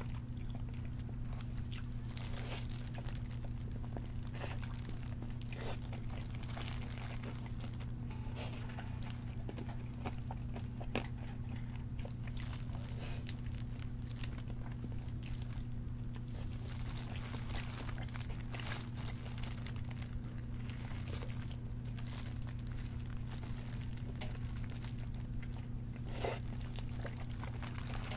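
Close-miked bites and chewing of crispy fried chicken: irregular crunches and crackles of the fried crust. A steady low hum sits underneath.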